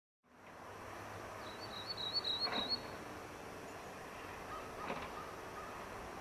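A bird's high, quickly wavering trill, about a second long, starting about a second and a half in, over a steady outdoor background hiss.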